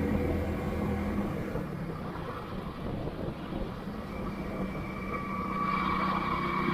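Motorcycle engine running steadily while riding uphill, over a haze of road noise. A steady higher whine joins in about five and a half seconds in.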